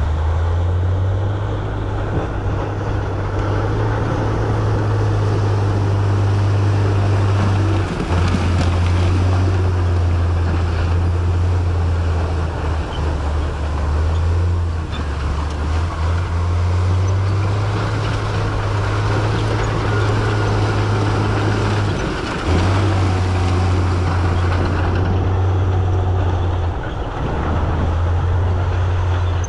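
Diesel engine of heavy earthmoving machinery running continuously under load, its low drone stepping up and down in pitch several times as the revs change, over a steady mechanical rumble.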